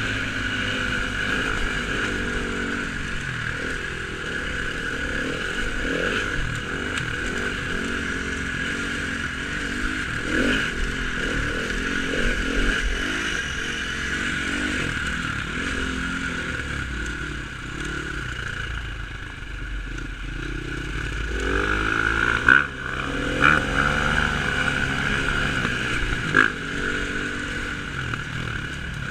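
Dirt bike engine revving up and falling off again and again as it is ridden around the track, recorded on an onboard camera. About three-quarters of the way through come three sharp knocks.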